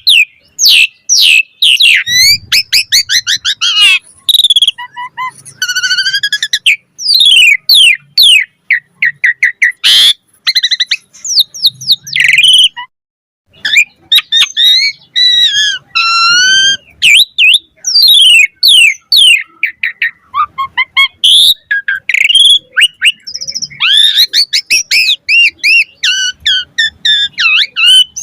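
Asian pied starling (jalak suren) singing fast and continuously: a rapid string of varied whistles, chirps, slurred glides and quick trills, with one short break about halfway through. It is the bird's full, varied song packed with mimicked calls of other birds.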